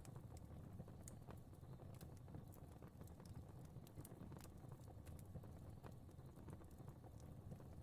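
Fire crackling faintly: scattered small snaps and pops at irregular intervals over a low, steady rumble.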